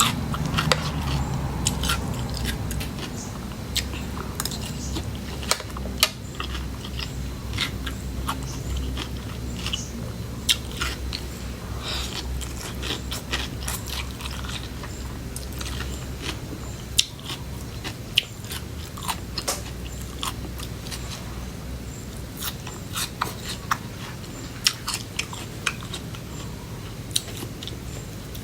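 Close-up eating sounds: biting and chewing crunchy food, with many short crisp crunches and clicks throughout over a steady low hum.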